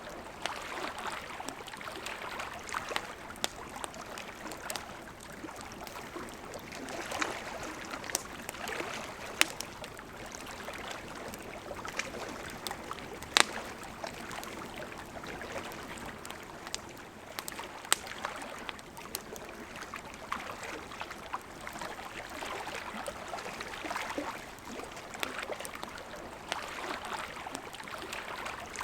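Campfire crackling with scattered sharp pops over the steady rush of a river; the loudest pop comes about halfway through.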